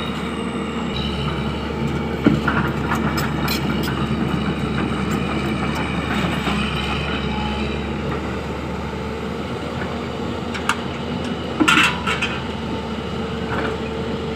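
Heavy diesel construction machinery running steadily, the work of an excavator loading dump trucks, with a few sharp metallic clanks: one about two seconds in and a cluster near the end.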